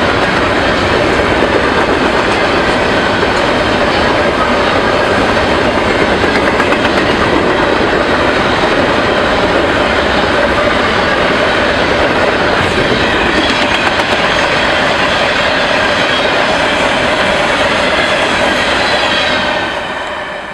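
Train cars rolling past close by, a loud steady rumble and rattle of wheels on the rails. It fades about nineteen seconds in as the end of the train goes by.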